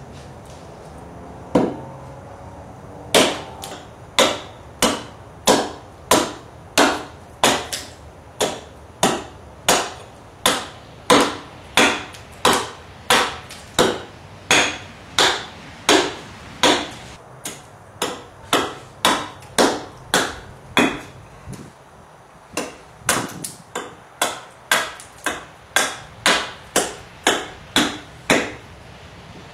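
Half hatchet hewing a mesquite branch down into a block: a steady run of sharp chopping strikes, about one and a half a second, with a short pause a little past the middle.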